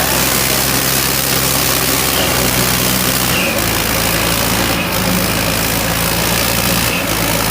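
Tractor diesel engine running steadily, with a few brief dips in level.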